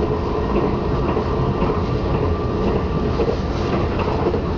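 Steady running noise inside a KLIA Ekspres electric train at speed: a low rumble of wheels on rail with a faint steady hum and a few light clicks.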